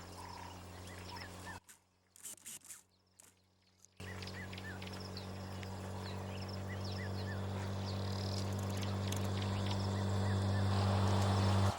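Small birds chirping over a steady low hum. The sound drops almost to silence for about two seconds near the start; after that the hum comes back and grows louder until it cuts off suddenly near the end.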